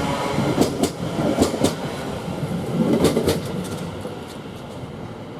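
Greater Anglia Class 720 electric multiple unit running along the track, its wheels clicking over the rail joints in pairs. The rumble fades away in the last second or so.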